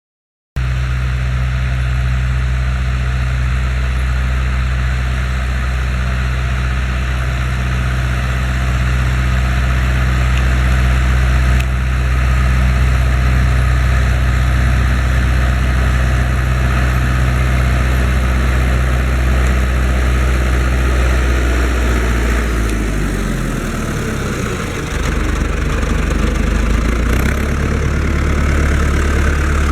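Fendt Farmer 106 S tractor engine running steadily, then slowing about 22 seconds in and settling at a lower, steady speed.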